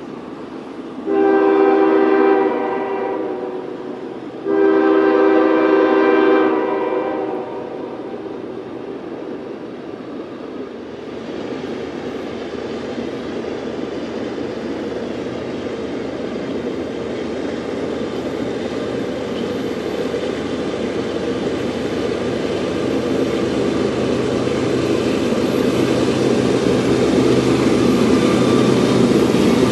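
Diesel freight locomotive's air horn sounding two long blasts, then the train's running noise growing steadily louder as it approaches.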